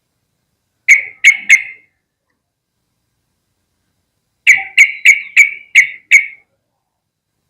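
Yellow-vented bulbul calling: three short, sharp notes in quick succession, then after a pause a faster run of six.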